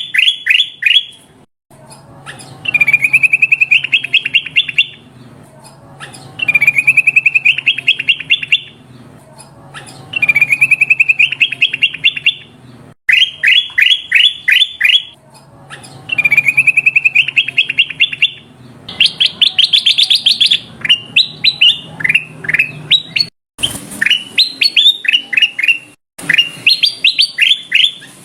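Kutilang emas bulbul calling in repeated phrases of rapid high chirps, each phrase about two seconds long and coming every three to four seconds, over a faint low hum.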